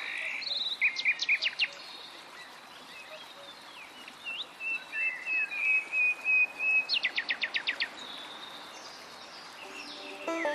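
Songbird singing in two phrases, one about a second in and a longer one from about four to eight seconds that holds a steady trill and ends in a quick run of sharp notes, over the steady hiss of flowing river water.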